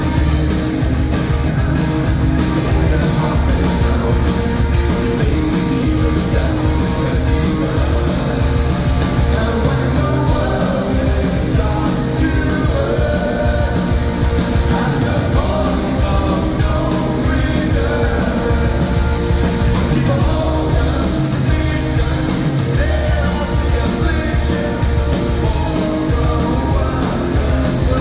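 Live rock band playing at full volume: electric guitars and a steady low bass beat, with a singer's voice over them from about a third of the way in.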